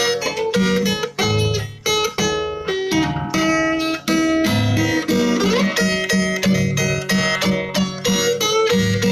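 Music on a plucked string instrument, like guitar: quick picked notes over repeating low bass notes.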